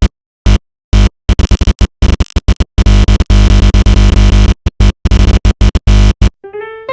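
Very loud, distorted electronic noise chopped into stuttering on-off bursts with dead silence between them. It cuts off about six seconds in and a piano melody begins.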